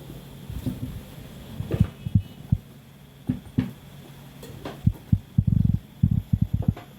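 Irregular dull thumps and knocks from a boot being handled and worked on during a sole repair, over a steady low hum. The thumps come close together for about a second and a half past the middle.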